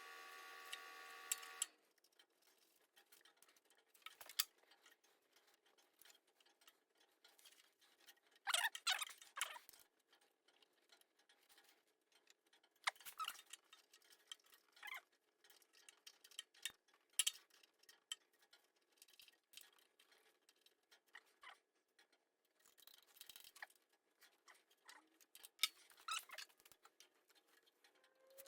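Faint, scattered clicks and taps of small parts and hand tools being handled, with a short scraping rustle about nine seconds in.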